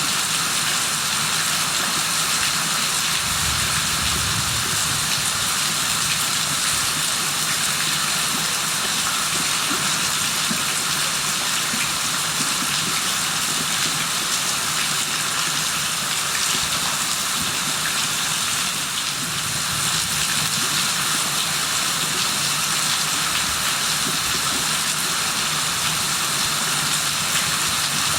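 Heavy rain falling steadily, an even hiss of rain on surfaces with no break.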